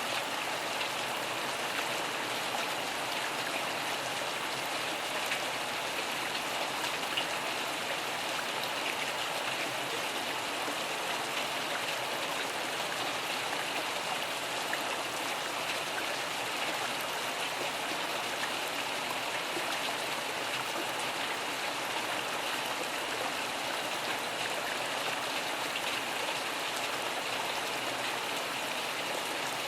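Steady rain falling: an even, unbroken hiss of drops, with no thunder.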